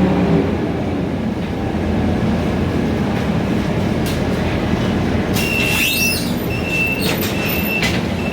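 Scania K320iA CNG city bus running, heard from inside the cabin as a steady low rumble. From about five seconds in, a high-pitched squeal sounds on and off, some of it steady and some gliding.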